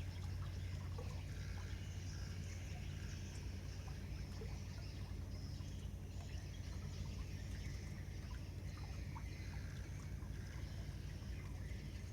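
Steady low hum of a large ship's engine passing on the river, with a faint wash of water and a few short high chirps above it.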